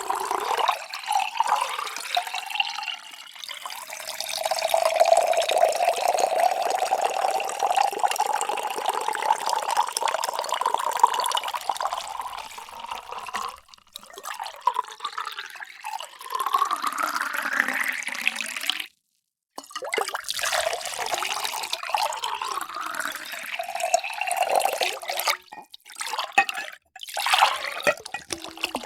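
Water poured into a container, with a hollow tone that rises steadily in pitch as the vessel fills. Several separate pours follow one another, with a sudden brief silence between two of them about two-thirds of the way in.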